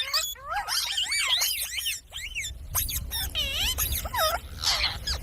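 Pet parrot calling and chattering: a quick run of short, high-pitched calls that swoop up and down in pitch, ending in a harsher squawk near the end.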